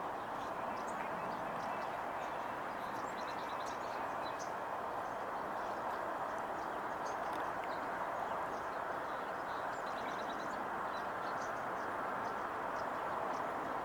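Steady outdoor background hum with many faint, short, high chirps and ticks scattered throughout, typical of small songbirds in the distance.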